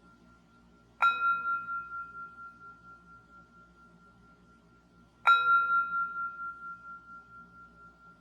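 Singing bowl struck twice, about four seconds apart, each strike ringing out with a clear tone that dies away slowly with a wavering pulse. The fading ring of an earlier strike is heard before the first one.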